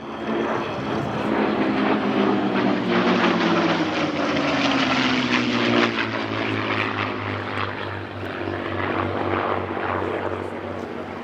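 Merlin V12 piston engine of a WWII propeller fighter flying past at an airshow, its pitch dropping as it goes by about two to six seconds in, then running steadily.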